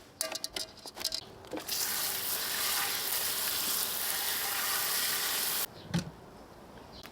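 Food sizzling in a hot pan: a steady hiss of about four seconds that cuts off suddenly, after a few light knocks and clatters.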